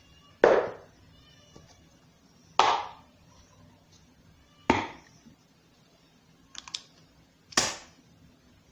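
Four sharp knocks about two seconds apart, each dying away quickly, with two faint clicks between the third and fourth.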